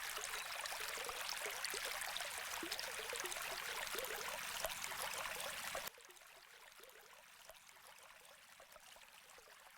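Water trickling and splashing in a paludarium's running water feature, a steady bubbling trickle. It cuts abruptly to a fainter trickle about six seconds in.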